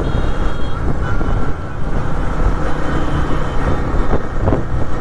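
Motorcycle running at riding speed, its engine rumble mixed with wind rushing over the rider's camera microphone, steady throughout, with a couple of brief knocks near the end.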